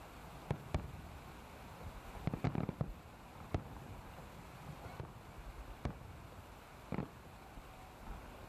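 Aerial fireworks bursting overhead: a series of separate sharp bangs, about seven, with a quick cluster of several about two and a half seconds in.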